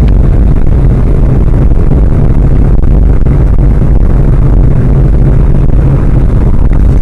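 Loud, steady low rumble of a vehicle on the move: engine and road noise.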